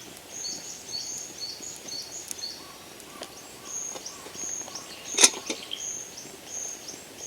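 A small bird repeating a high two-note call, a higher note dropping to a lower one, about twice a second. A single sharp knock about five seconds in.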